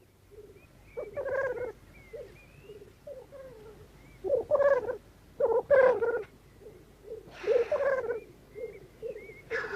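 Male black grouse calling at a lek: short bouts of low bubbling, cooing calls, with a harsh hissing call about seven and a half seconds in and another near the end.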